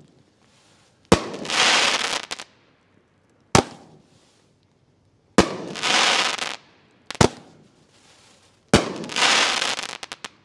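Consumer firework cake firing a shot about every two seconds, five sharp reports in all. Three of them are followed by about a second and a half of crackling.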